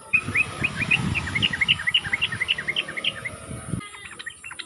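Yellow-vented bulbul (trucukan) song: a fast run of short, bright chirping notes over a low rumble. It cuts off just before the end and a denser burst of chirps takes over.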